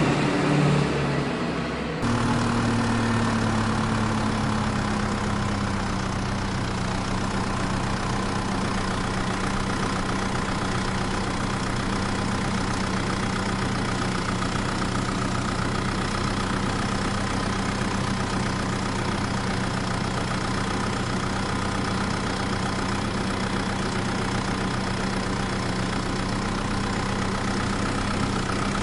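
A vehicle engine idling steadily, settling slightly lower in pitch in its first few seconds. It takes over abruptly about two seconds in from a different, louder sound.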